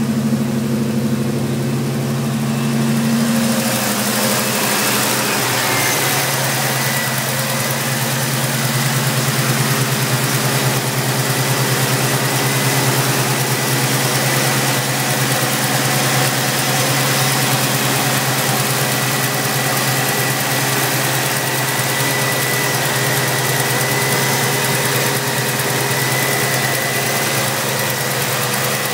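A 1978 Chevrolet El Camino SS's 350 small-block V8 idling steadily. A little after three seconds the sound turns brighter and hissier, and a thin steady high whine runs over the idle.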